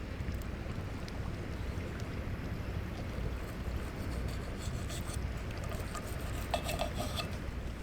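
Steady low rumble of sea wind buffeting the microphone, with a few faint clicks near the end.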